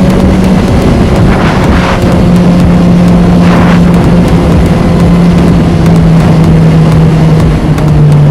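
Honda CB1000R's inline-four engine running at a fairly steady cruise, its pitch shifting only slightly, with wind noise on the microphone. Two brief rushes of hiss come about one and a half and three and a half seconds in.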